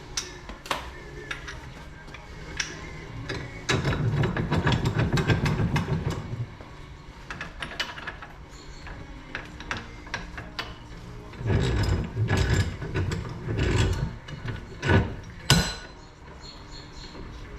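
Ratchet wrench working bolts in two bursts of rapid clicking, the second about eleven seconds in, with scattered metal tool clinks between.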